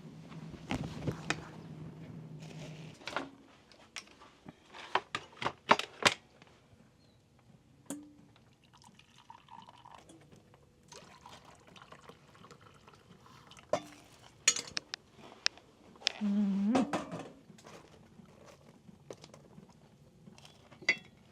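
Kitchen dishes and utensils clinking and knocking in scattered sharp clicks, with some liquid being poured. A low steady hum runs for the first few seconds, and a short pitched sound comes about two-thirds of the way in.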